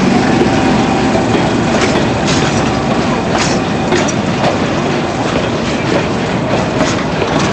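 Durango & Silverton narrow-gauge train rolling, its wheels clicking irregularly over the rail joints under a steady rumble. A faint steady tone sounds for the first few seconds, then fades.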